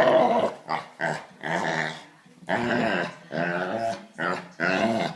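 Dogs play-growling: a string of about eight short, pitched, wavering grumbles in quick succession.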